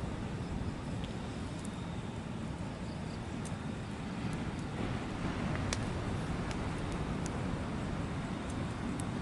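Steady outdoor ambient noise with a low rumble, broken by a few scattered sharp clicks.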